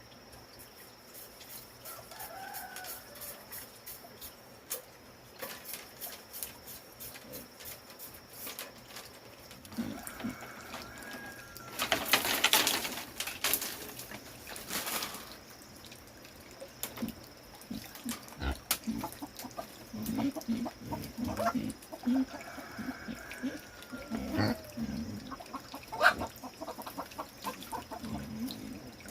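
Chickens clucking and calling on and off, among scattered clicks and knocks, with a brief loud rush of noise about twelve seconds in.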